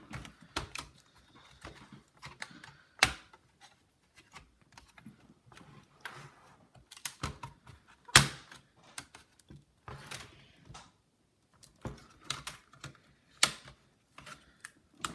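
Plastic clicks, snaps and knocks of a laptop's upper case (palmrest) being worked loose and handled during disassembly, with three sharper knocks standing out among light rattles.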